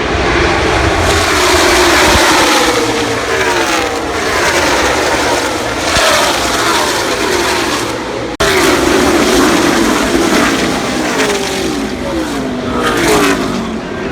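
NASCAR Cup stock cars' V8 engines racing past in a pack, car after car, each engine note falling in pitch as it goes by. The sound breaks off sharply once, about eight seconds in.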